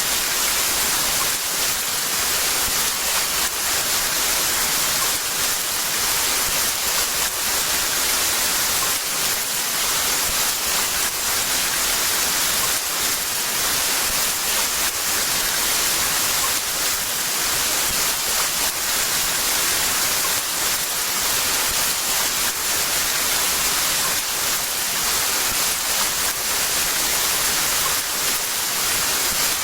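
Heavy rain falling in a steady, dense hiss of many small drops, with no thunder.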